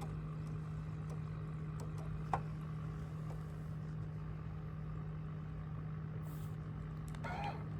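Steady low motor hum from a fishing boat, with one sharp click a little over two seconds in and brief rattling near the end.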